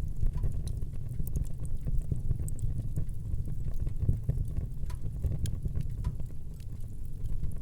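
Wood fire burning in a fireplace: a steady low rumble of flames with irregular sharp crackles and pops of burning wood.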